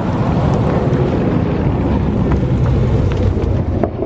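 Loud, steady low rumble of a muscle car's engine and exhaust, mixed with wind noise on the microphone.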